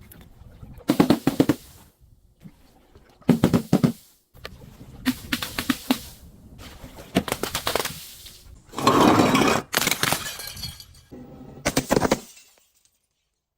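Glass bottles being crushed and broken, in about six separate bursts of crackling, crunching breakage with pauses between. The longest and loudest crunch comes about nine seconds in.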